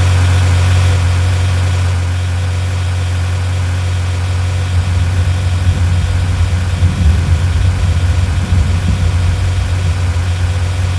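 Vehicle engine idling with a steady deep hum, joined by an uneven low rumble about five seconds in.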